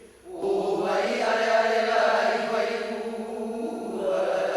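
Hawaiian chant: voices holding long drawn-out tones, beginning about half a second in, with a fresh phrase starting near the end.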